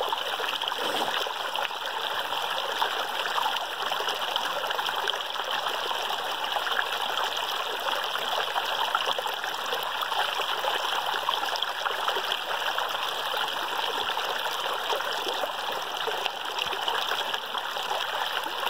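Flowing water, such as a stream, running steadily as a continuous rushing noise without breaks or distinct splashes.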